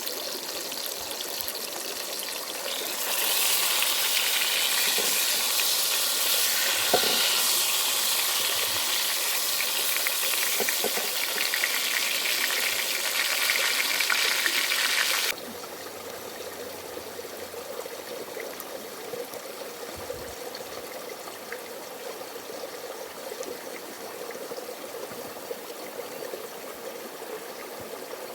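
Ingredients frying in a pan, a steady sizzle that grows louder about three seconds in and then cuts off abruptly halfway through to a quieter, steady hiss.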